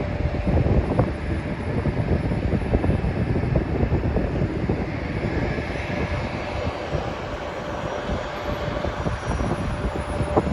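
Jet airliner engines running at an airport: a steady, dense rumble with a faint steady whine above it.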